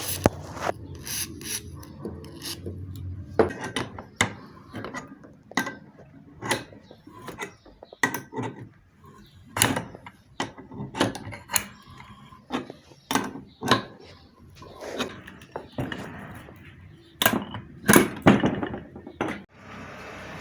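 Irregular metal clicks and knocks from a bearing puller being worked on a centrifugal water pump motor's shaft to draw off its ball bearing.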